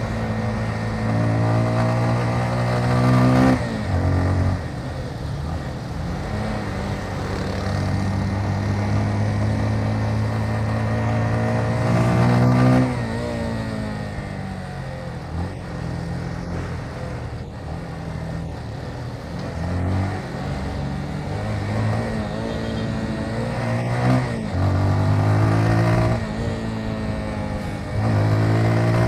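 Motorcycle engine being ridden through traffic, repeatedly accelerating and changing gear. The pitch climbs and then drops at each shift, a few times over, with steadier cruising stretches in between, all under a rush of wind and road noise.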